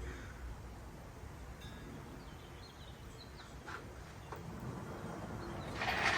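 Faint, brief songbird chirps over a low outdoor background hiss, then a louder burst of rushing noise near the end.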